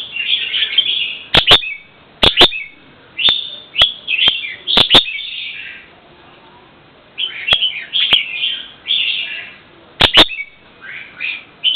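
A bird chirping and calling in short bouts of high chirps, broken by sharp clicks that often come in quick pairs, with a brief lull in the middle.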